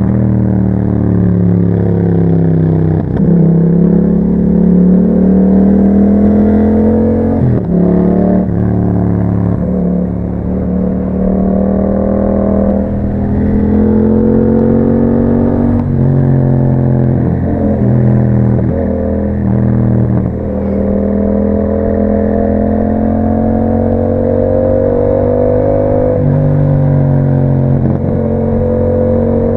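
A 2021 Yamaha MT-07's 689 cc parallel-twin engine running through an Akrapovic exhaust with a dB killer while the bike is ridden. The engine note climbs slowly under throttle and drops sharply at each gear change, several times over.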